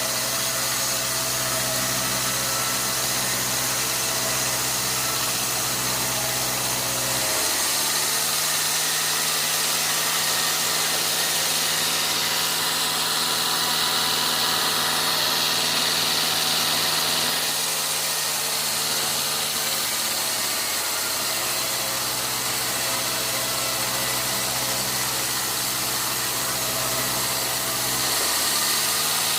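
Sawmill engine running steadily, its pitch stepping up about seven seconds in, dropping back near twenty seconds and stepping up again near the end.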